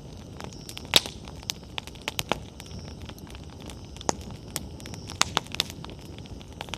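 Wood campfire burning, the firewood crackling with irregular sharp pops, the loudest about a second in, over a low steady rush of flames.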